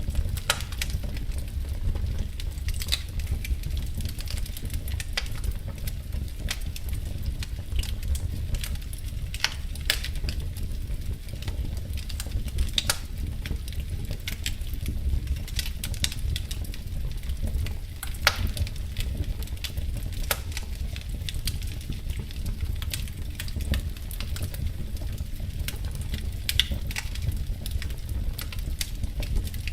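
Wood fire in a fireplace crackling, with sharp pops at irregular moments over a steady low rumble.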